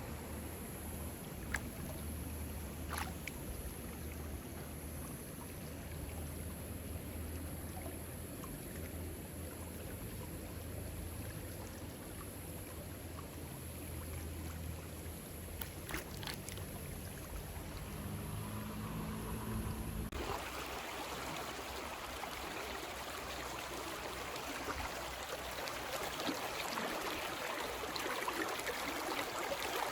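A steady low rumble for about the first two-thirds, then an abrupt change to the even rush of creek water flowing over a streambed.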